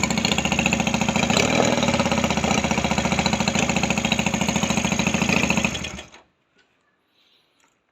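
Jawa 350 motorcycle engine running with a steady pulsing exhaust, then switched off about six seconds in, stopping within half a second; a faint click near the end.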